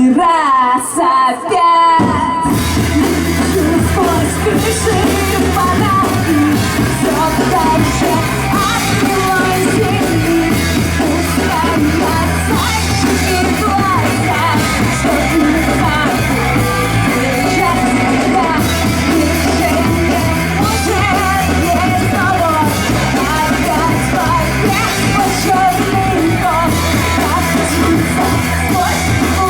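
Live rock band playing with a sung lead vocal over bass, drums and electric guitar. For about the first two seconds only a voice or guitar line sounds, then the full band comes in loud and carries on steadily.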